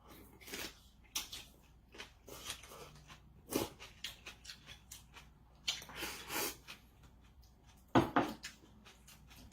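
Kitchenware being handled: a string of separate knocks, clicks and short scrapes, like utensils against dishes, the loudest about eight seconds in.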